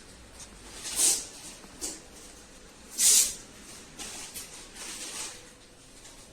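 Short hissing bursts of compressed air, a strong one about a second in and a louder one about three seconds in, with fainter hissy rustles between, during preparation of a car body for painting.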